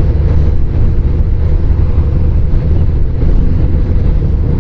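Motorcycle engine running steadily while riding along, a continuous low drone mixed with road and wind noise.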